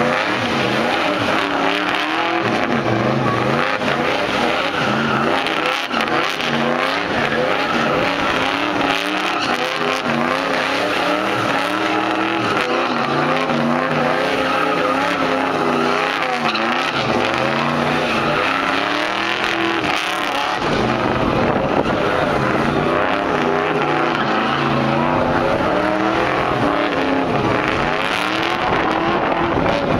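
A car engine running and being revved, its pitch rising and falling over and over, with a brief dip a little past two-thirds of the way through.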